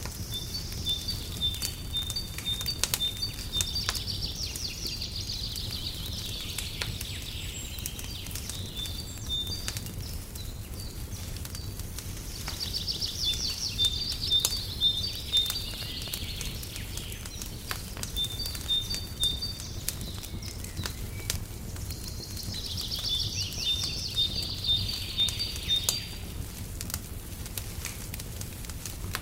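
Fireplace crackling, with scattered sharp pops over a low steady rumble. A songbird sings a trilling, whistled phrase three times, about ten seconds apart.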